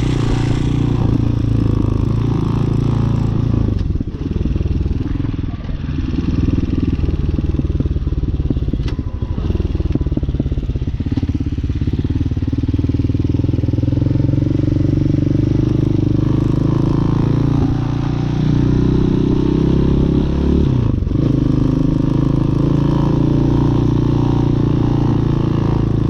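Hawk 250 dual-sport motorcycle's single-cylinder engine running on the move. About three quarters of the way through the engine pitch climbs as it accelerates, then drops suddenly, as at a gear change.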